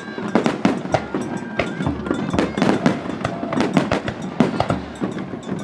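Star mine firework barrage: shells fired and bursting in rapid succession, several sharp bangs a second overlapping one another.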